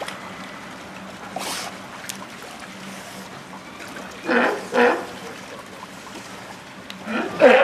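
An animal gives two short, harsh calls about four seconds in and starts calling again near the end, over a steady background hum, with a brief hiss about a second and a half in.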